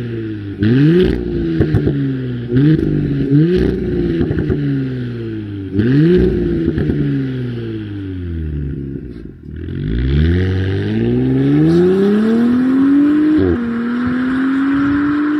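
Audi SQ5 (FY) 3.0 TFSI turbocharged V6 through a cat-back exhaust: a series of short, sharp rev blips, then after a lull a steady pull rising in pitch for several seconds, broken by a gear change near the end.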